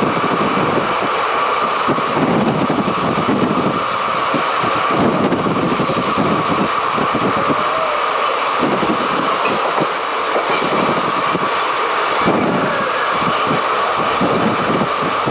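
A moving MMTS local train heard from on board: the carriage runs steadily on the rails with a continuous rumble and rattle.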